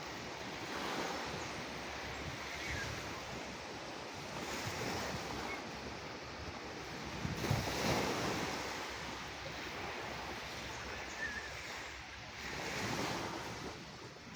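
Sea surf: waves breaking and washing ashore in a continuous rush that swells and ebbs every few seconds, the biggest surge about halfway through.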